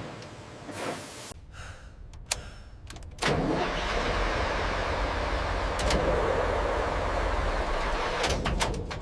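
A few light clicks, then about three seconds in an engine starts with a short rising sound and keeps running with a steady low rumble.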